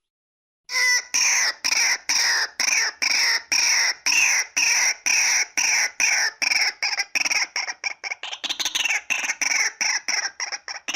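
Female white-breasted waterhen calling: a series of loud, harsh repeated notes about two a second, starting about a second in and quickening into a faster run near the end.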